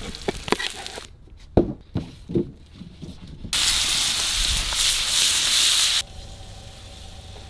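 A few light clicks and knocks, then about three and a half seconds in, salmon steaks sizzling loudly as they fry in butter in a pan. The sizzle cuts off abruptly after about two and a half seconds.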